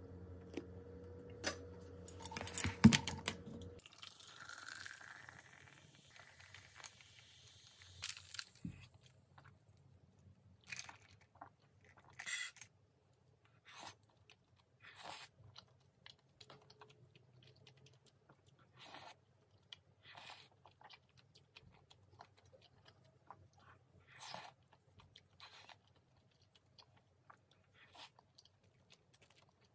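Crunchy chewing of food close to the microphone, short irregular crunches about once a second. The first few seconds carry a steady hum and a sharp clack about three seconds in, then a soft hiss before the chewing takes over.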